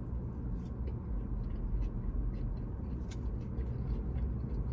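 Steady low rumble with faint scattered clicks and rustles of someone eating and handling food.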